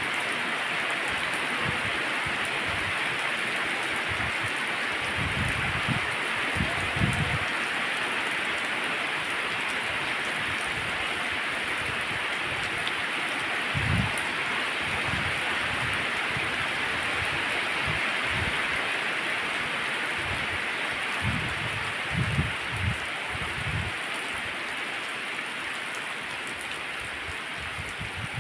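Heavy rain falling steadily on wet pavement, a dense even hiss, with a few brief low rumbles now and then.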